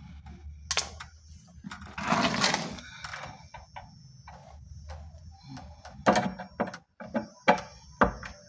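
Hand-tool work on a wooden drawer front to refit a drawer lock: a scraping noise about two seconds in, then several sharp knocks and clicks near the end.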